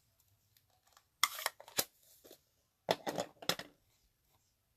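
Two short bursts of clicking and rustling, about a second in and about three seconds in: a rubber stamp and cardstock being handled on a craft table.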